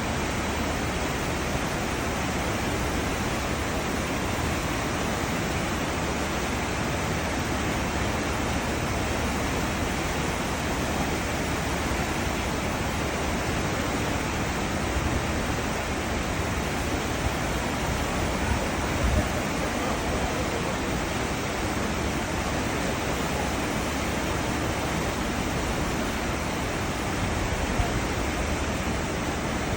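Cruise ship's wake churning and rushing: a steady, even wash of water with no breaks, with some low rumble beneath it.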